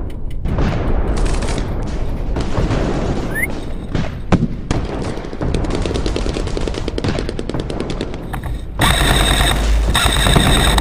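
Airsoft guns firing in rapid full-auto bursts, a fast run of sharp clicks. From about nine seconds in, a louder pitched sound with steady tones comes in pulses about a second long.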